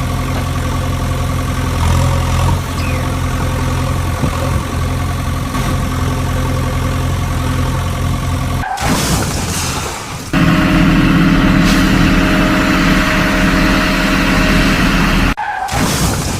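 Engine running steadily at idle, in pieces spliced together: after a brief break about nine seconds in it resumes at a higher, louder pitch.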